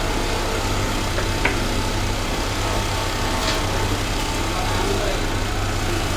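Pegasus high-speed industrial sewing machine running steadily with an even motor hum, a couple of faint clicks over it.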